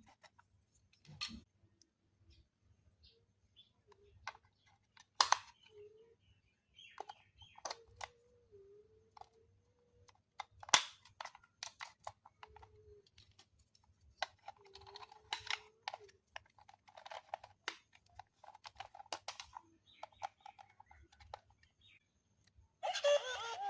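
Scattered light clicks, taps and faint squeaks from toys and packaging being handled, with two sharper clicks. Music starts near the end.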